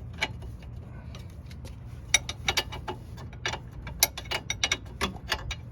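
Hand socket ratchet clicking in quick, irregular strokes as a 21 mm fastener on the front suspension is worked loose.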